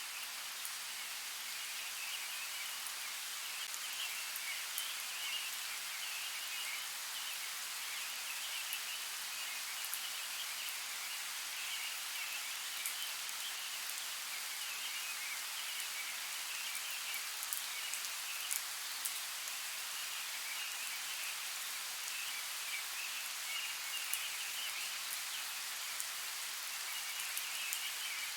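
Outdoor nature ambience: a steady hiss with a pulsing chorus of small calling creatures, with scattered sharp ticks.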